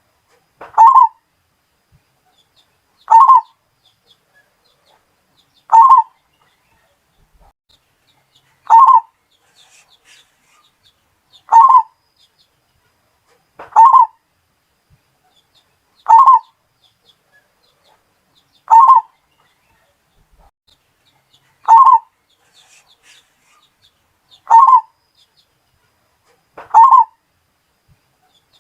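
Zebra dove (perkutut) cooing: a short phrase of about half a second, repeated every two to three seconds, eleven times.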